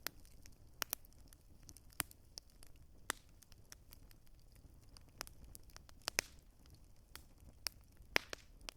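Campfire wood crackling: irregular sharp pops and snaps, about a dozen, over a faint steady hiss.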